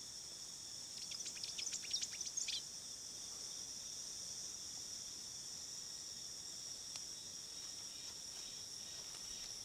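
Steady high-pitched drone of insects, crickets or cicadas, with a quick run of short, high bird chirps between about one and two and a half seconds in.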